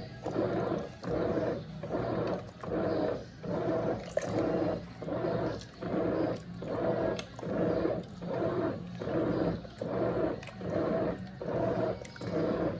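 Brastemp Eggo 1 kg mini washing machine agitating a load in water, with an even rhythmic swish-swish about one and a half times a second as the wash action turns back and forth.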